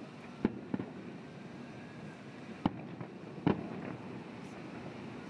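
Distant aerial fireworks shells bursting: four sharp bangs, two close together near the start and two more later, over a steady background hiss.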